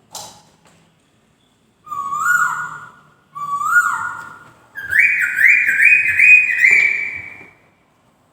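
Poksay (laughingthrush) singing: a sharp click, then two clear whistled notes that each rise and fall, then a quick run of about five higher whistled notes, each rising.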